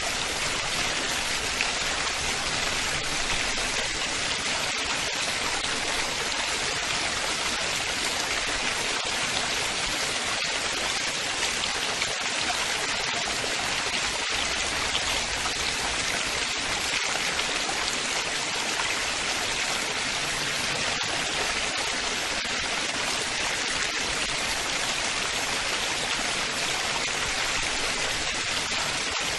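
Running water splashing and babbling steadily, an even rushing hiss with no breaks or changes.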